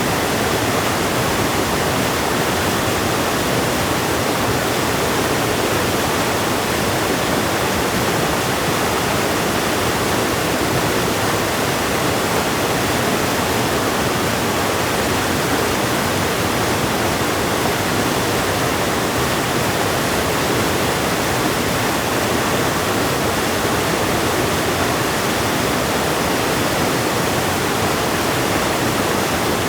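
Fast-flowing river water rushing, a steady, unbroken wash of noise.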